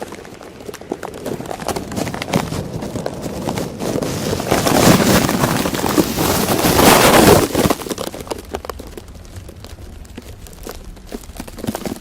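Storm wind and rough water making a rushing noise broken by irregular knocks and buffets. It swells to its loudest about halfway through, then eases.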